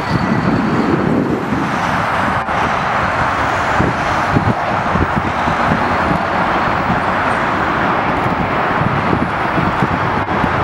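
Steady, loud engine roar with low, irregular rumbles of wind buffeting the microphone.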